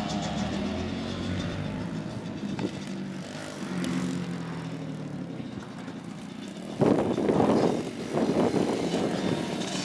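Small dirt bike engine revving up and down as it rides the track, its pitch rising and falling and fading as it moves away. About seven seconds in, a sudden louder rough rushing noise cuts in over it.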